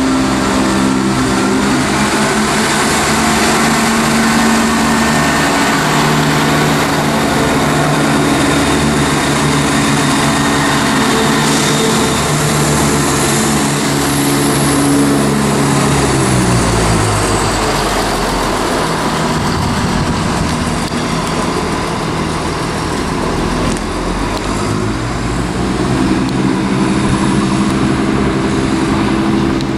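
Class 168 diesel multiple unit's underfloor diesel engines working as the train moves past: a steady, loud multi-toned engine note that drops in pitch a little past halfway, then builds up again near the end.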